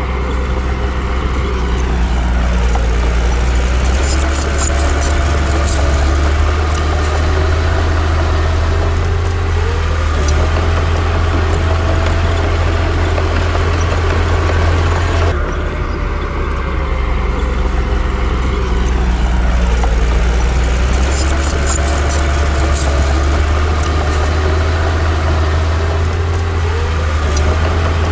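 Komatsu D60 bulldozer's diesel engine running under load, its pitch rising and falling as it works, with sharp metallic clanks from the tracks. The sound changes abruptly about halfway through and the pattern starts over.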